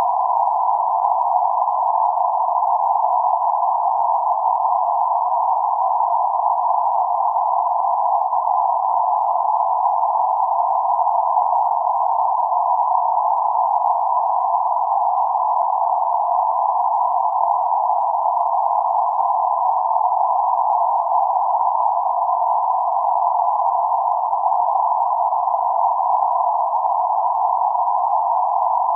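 Synthesized ambient noise centred around 848 Hz: a steady, unchanging noise confined to a narrow middle band, with nothing low or high in it.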